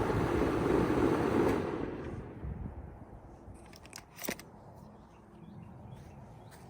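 2004 Bard wall-hung heat pump in heat mode shutting down: its steady running noise fades away about two seconds in. A brief sharp click follows a couple of seconds later.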